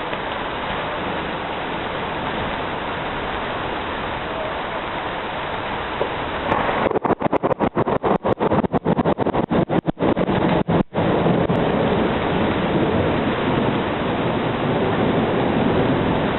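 Steady hiss of heavy rain. About six seconds in it grows louder, and for the next four seconds the sound cuts out briefly again and again before running on steadily.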